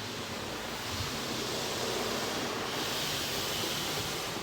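Automatic car wash gantry spraying water onto the car, a steady hiss heard from inside the cabin that swells about a second in and eases near the end.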